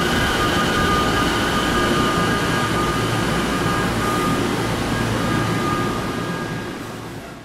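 Electric commuter train running at the platform, a steady rail rumble with thin high whining tones over it, fading away near the end.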